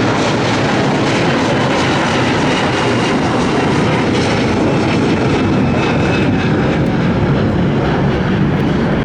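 Jet airliner engines running, a loud, steady rush of engine noise.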